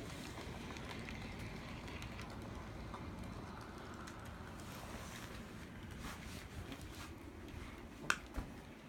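Brass HOn3 model steam locomotive running on its track: a steady low rumble of motor, gears and wheels with scattered light clicks, and one sharper click about eight seconds in.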